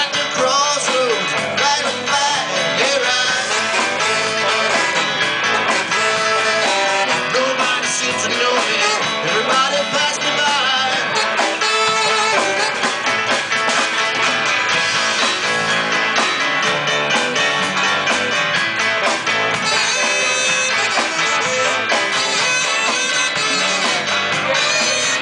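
Live band playing a blues-rock song with electric guitar, loud and steady throughout.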